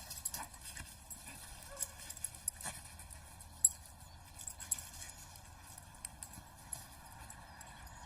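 Scattered light clicks and taps at an irregular pace, the sharpest about three and a half seconds in, over a faint low hum.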